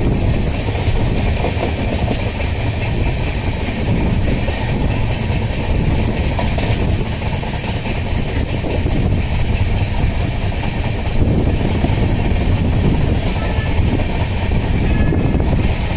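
Onboard running noise of an LHB passenger coach in motion, heard at the open door: steel wheels rolling on the rails with a steady deep rumble and air rushing past.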